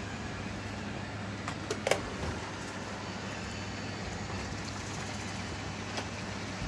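Robot vacuum running with a steady motor hum, with a few sharp clicks, the loudest about two seconds in.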